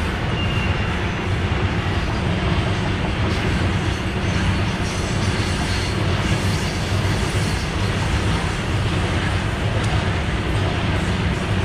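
Train running at speed on the rails, a steady rumble of wheels and coaches with no break.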